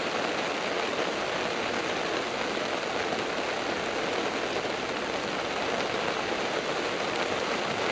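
Heavy rain falling steadily, hitting the lake surface and the fishing brolly overhead, heard as an even hiss with no pauses.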